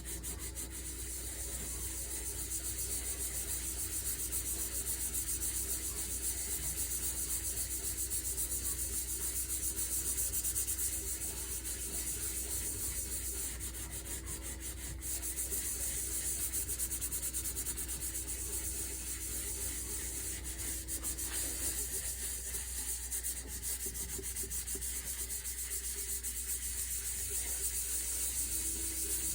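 A pan being scrubbed by hand: continuous rapid, scratchy rubbing strokes with only small rises and falls in loudness.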